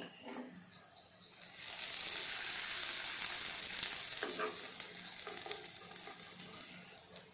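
Oil sizzling under moong dal bread toast frying in a nonstick pan. The sizzle starts about a second and a half in, is loudest for a couple of seconds, then slowly fades. A few light scrapes of a metal slotted spoon against the pan near the start and again about four seconds in.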